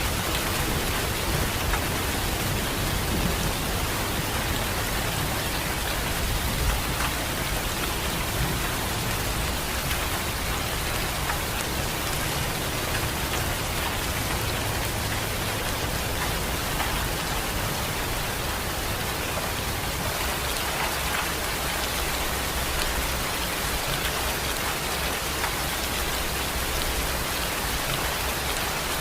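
Steady rain falling, an even hiss with no change through the whole stretch.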